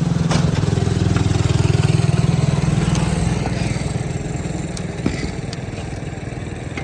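A small engine running close by with a rapid pulsing drone, loudest about two seconds in, then fading away. There is a sharp click just after the start.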